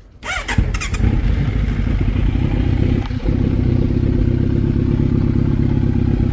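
Inline-four sport motorcycle fitted with a full Akrapovič exhaust, started on its electric starter: a short cranking whine, the engine catching within about a second, then idling steadily with a brief dip about three seconds in.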